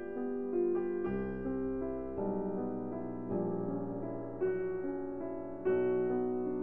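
Background piano music: a slow, gentle piece with a new chord struck about once a second.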